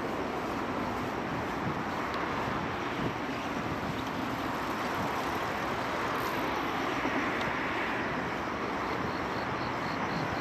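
Steady rush of city road traffic: a continuous even noise with no single passing vehicle standing out.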